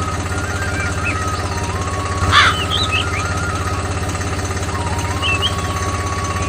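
Miniature DIY tractor running steadily with a low engine-like hum and rapid even pulses, over a thin whine that steps up and down in pitch. Short high chirps come and go, with one sharper, louder one about halfway through.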